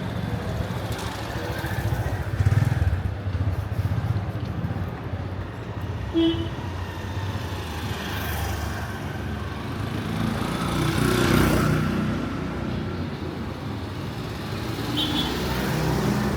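Street traffic with motorcycle engines running and passing close, the loudest pass-by about eleven seconds in. A short beep sounds about six seconds in.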